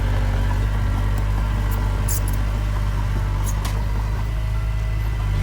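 Heavy diesel engine of earthmoving equipment running steadily with a low, even hum.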